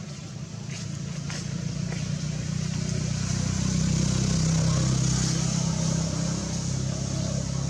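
A motor vehicle's engine running steadily with a low hum, growing louder to a peak about halfway through and then easing slightly, as if passing close by. A few faint clicks come early on.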